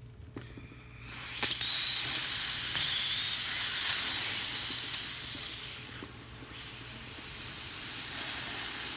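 La Pavoni lever espresso machine's steam wand opened and venting steam: a loud high hiss with a wavering whistle riding on it. It starts about a second and a half in, drops away for a moment around six seconds, then comes back.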